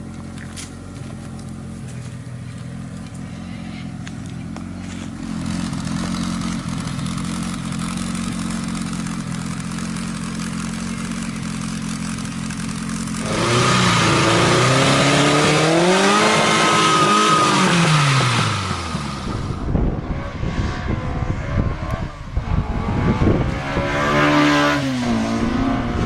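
Car engine idling steadily, then revved: about halfway through it gets louder, and the pitch climbs and falls back over several seconds. A shorter rev comes near the end.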